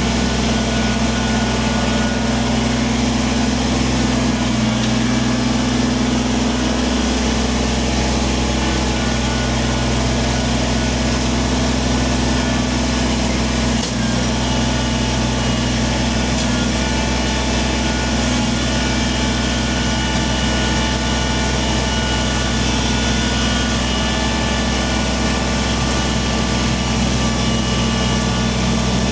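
Kubota compact tractor's diesel engine running at a steady speed.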